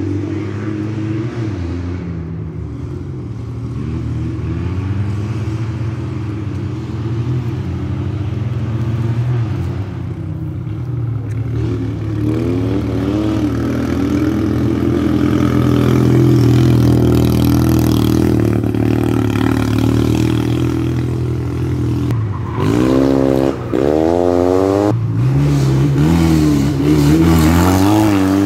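Rally car engine running hard on the course, its pitch climbing and falling as it accelerates and brakes. It grows louder as the car comes nearer, and near the end it revs up sharply two or three times in quick succession, dropping back between each, as when shifting up through the gears.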